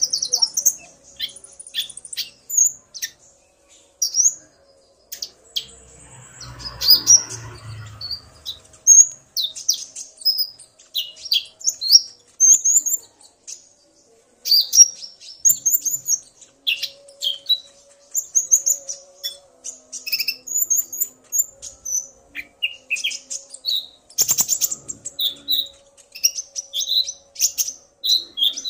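Konin (kolibri ninja) sunbirds calling back and forth: a busy run of rapid, high, short chirps and twittering trills. A brief low rustle comes about a quarter of the way in.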